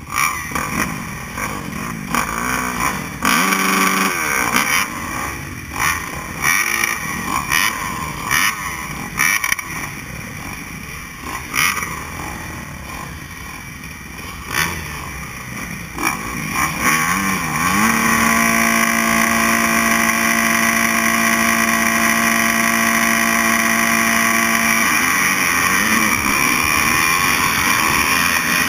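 Motocross bike engines revving in repeated short blips. About two-thirds of the way in, one engine rises and holds a steady high pitch for several seconds before falling away.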